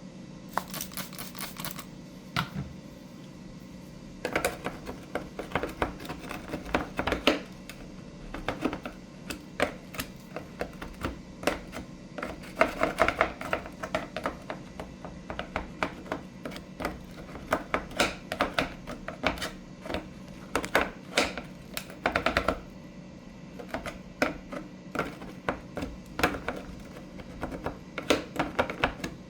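Chair upholstery being cleaned: dense, irregular crackling clicks in clusters, over a steady low hum.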